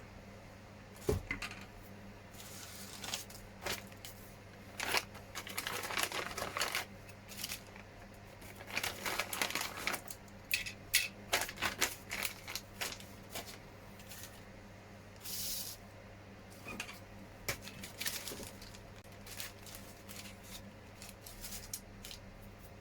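Small injection-moulded plastic kit parts being handled and fitted together: irregular light clicks, taps and short rustles, over a faint steady hum.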